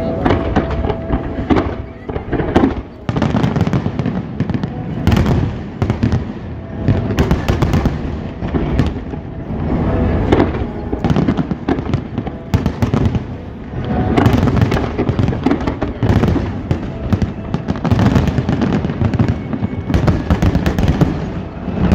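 Aerial fireworks bursting in quick succession, booms and crackles overlapping one another without a break.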